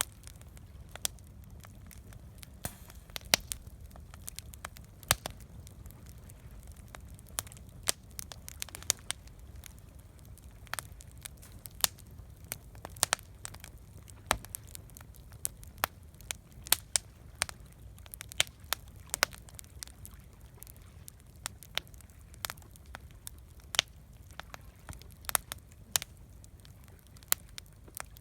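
Wood campfire crackling, with irregular sharp pops and snaps, several a second at times, over a low steady rumble.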